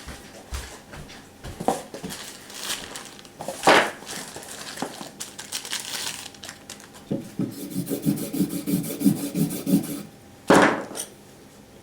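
Knife-sharpening gear being handled: scattered knocks and rubs, then a quick run of short scraping strokes from about seven to ten seconds in, and one loud knock shortly after.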